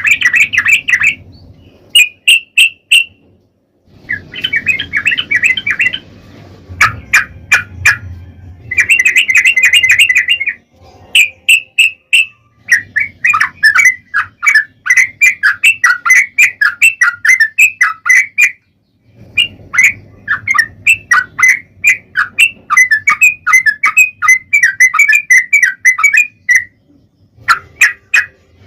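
Yellow-vented bulbul (trucukan) singing its long rapid-fire song ('ropel panjang'): bursts of fast, bubbly chattering notes, broken by short pauses between phrases. A faint low hum sits under some of the phrases.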